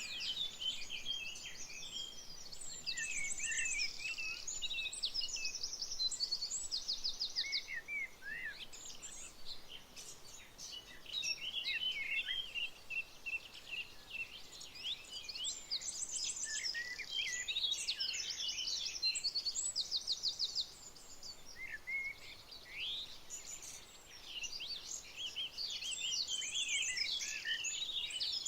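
Several songbirds singing and calling together, a busy overlapping chorus of chirps, whistled notes and fast trills.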